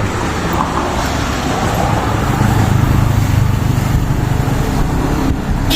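A motor vehicle's engine running close by, a steady low rumble that grows louder about two seconds in.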